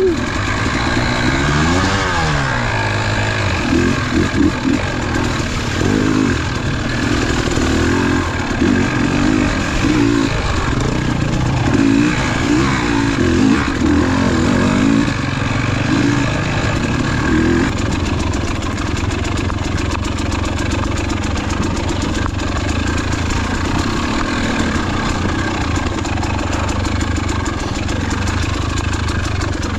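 KTM enduro dirt bike engine revving up and down as it is ridden along a single-track trail, its pitch rising and falling again and again. A little past halfway it settles into a steadier, lower note.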